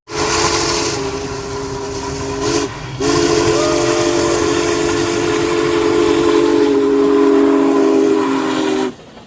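Union Pacific 4014 Big Boy steam locomotive's chime whistle blowing a chord: a short blast, then a long one held for about six seconds, with steam hissing.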